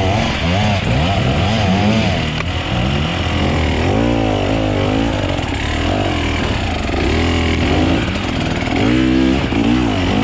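Enduro dirt bike engines running and revving, rising and falling in pitch again and again, with a steady lower engine note underneath.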